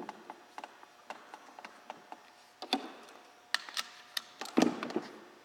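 Scattered light clicks and metallic clinks with a louder knock about four and a half seconds in: a compression gauge and hand tools being handled on the engine as the gauge is moved from the mag-side spark plug hole to the PTO side.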